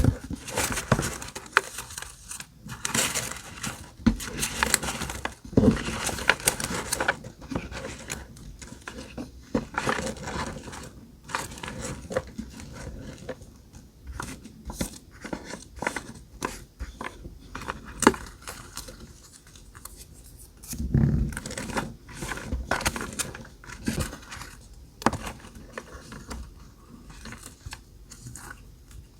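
Scrapbooking paper and journal materials being handled: irregular rustling and crinkling with small taps and clicks, busiest in the first several seconds.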